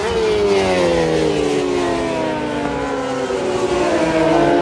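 Racing motorcycle engine on track, its pitch falling steadily for about three seconds as it slows, then rising again near the end as it picks up speed.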